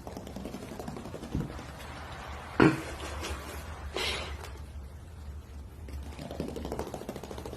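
A few knocks and clicks, the sharpest about two and a half seconds in, over a low steady background hum.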